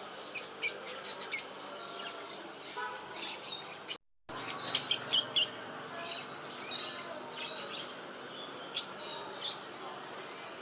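Small cage birds chirping in quick high bursts, two busy flurries separated by a brief dropout about four seconds in, then scattered single chirps.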